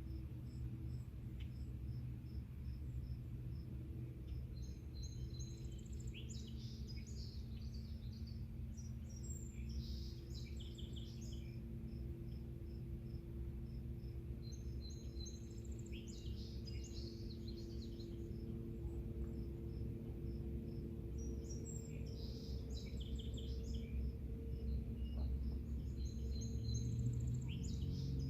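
Evening outdoor ambience: a songbird sings short phrases every few seconds over insects chirping in a steady, even pulse. A low, steady hum runs underneath.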